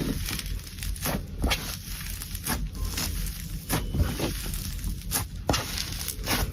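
Slime being squeezed and poked by hand, making irregular sticky clicks and pops, about one or two a second.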